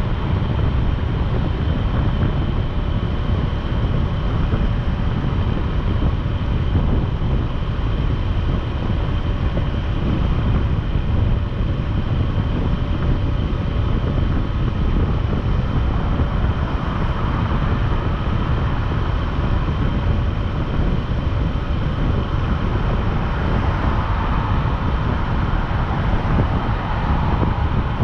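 Motorcycle riding at a steady speed: wind rushing and buffeting over the microphone, with the engine and road noise droning steadily underneath.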